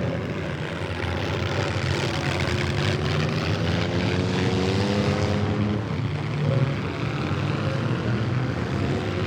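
Several demolition derby cars running at once, engines revving up and down, with one rising rev about two to five seconds in.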